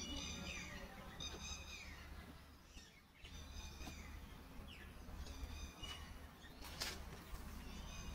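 A bird calling over and over, short high-pitched calls about every second or two, over faint outdoor background noise.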